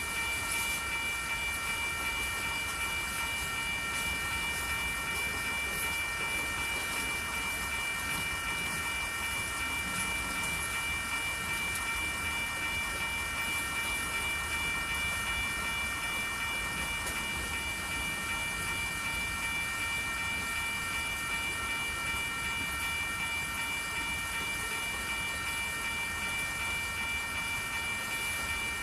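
Freight cars of a manifest train rolling past, a steady rumble with several high-pitched tones held unchanging over it.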